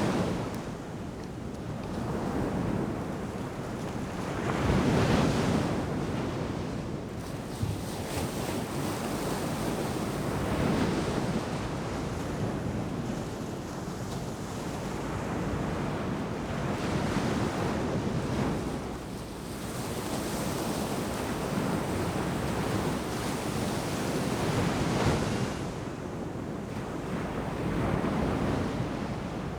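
Ocean waves breaking and washing onto a sandy beach, a steady surf hiss that swells with each breaker every few seconds, with wind buffeting the microphone.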